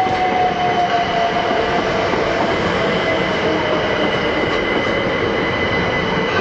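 Train passing close by over a level crossing: a loud steady rush of wheels on rail, with a whine that falls slowly in pitch over the first few seconds and a high steady squealing tone.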